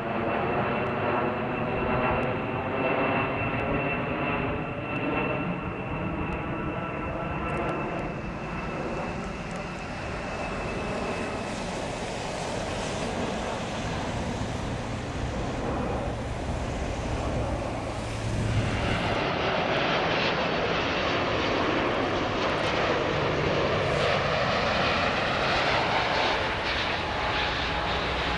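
Jet airliner passing low overhead on landing approach. A high engine whine and sweeping, wavering bands fade over the first few seconds, leaving a broad jet roar that grows louder about two-thirds in.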